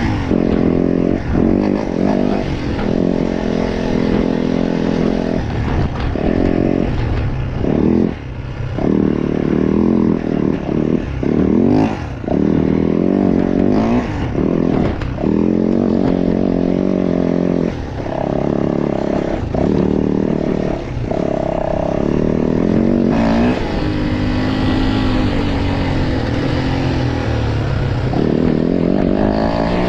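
Motocross dirt bike engine racing under hard throttle: it revs up and drops off again and again as the throttle is opened and chopped through the gears, with brief dips off the gas.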